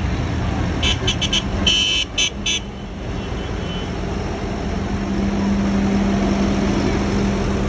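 Tractor engines running, with a quick series of short horn toots about a second in, then a steady engine drone that grows louder as a tractor comes closer.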